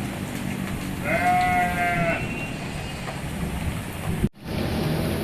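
A sheep bleating once, a single call about a second long, over a steady background hiss. The sound cuts out for a moment near the end.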